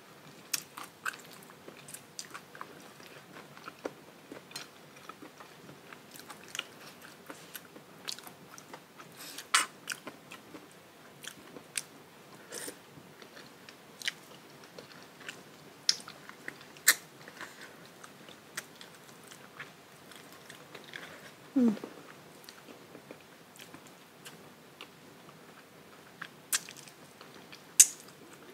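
Close-miked eating: chewing with irregular sharp crunches and mouth clicks, the loudest crunch near the end, and one short sound falling in pitch a little past two-thirds of the way through.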